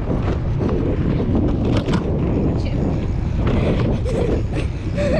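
Wind buffeting the GoPro's microphone while riding a bicycle: a steady low rumble with scattered clicks and rattles.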